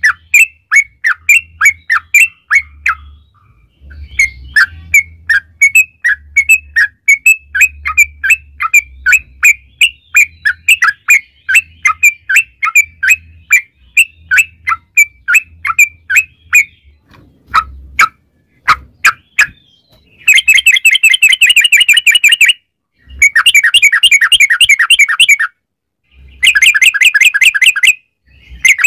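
Yellow-vented bulbul song: a long run of short, downward-sliding chirps at about two a second. About two-thirds of the way in it switches to rapid rolling trills, given in bursts of two to three seconds with short breaks.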